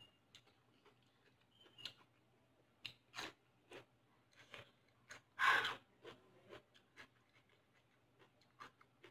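Close-miked chewing and mouth sounds of a person eating fried rice and a crisp cucumber slice, with scattered small clicks. One louder rustle about five and a half seconds in.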